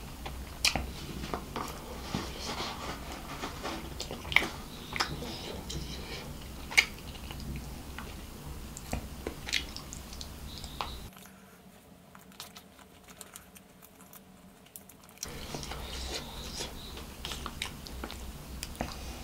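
Close-miked chewing and wet mouth clicks of a person eating fried rice and coleslaw with his hand. The sound goes quieter for about four seconds a little past the middle.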